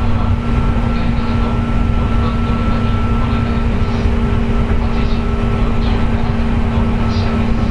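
Running noise inside a JR West 201 series electric train car at steady speed: a rumble of wheels on rail with a steady whining tone, the 'jet sound' caused by electrical corrosion of the bearings.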